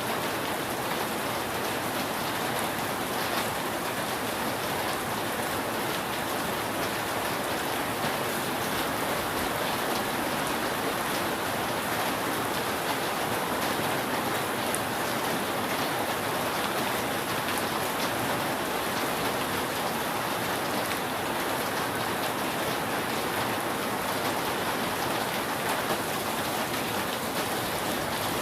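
Steady rain falling on a roof: an even, dense hiss with many small drop ticks and no thunder.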